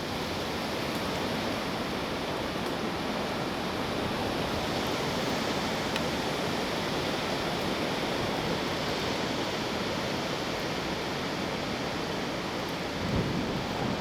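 Strong wind from a cold front, a steady rushing noise, with a brief low buffet of the microphone near the end.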